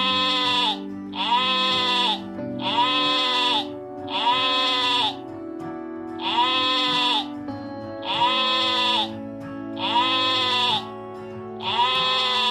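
Sheep bleating again and again, one long bleat about every second and a half, all alike, over background music with sustained notes.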